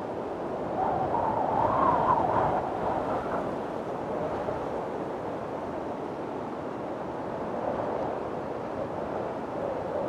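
Windstorm: strong wind blowing steadily, with a gust that swells from about a second in, peaks around two seconds, and then eases.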